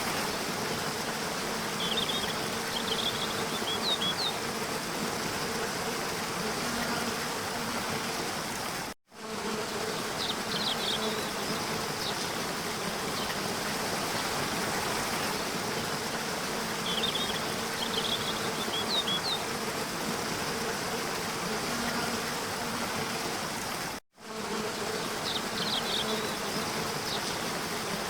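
Steady rush of falling water from a waterfall, with small birds chirping briefly every several seconds and a faint low hum. The recording is a short loop: the sound cuts out for an instant about nine seconds in and again near the end, where the loop restarts.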